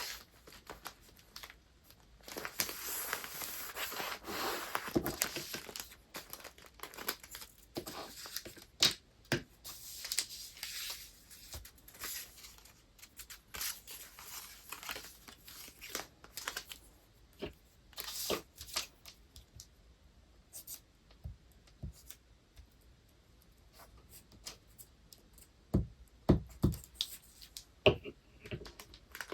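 Paper and packing materials handled by hand while wrapping: a few seconds of continuous rustling or tearing about two seconds in, then short crinkles and light taps, and a few soft thumps near the end.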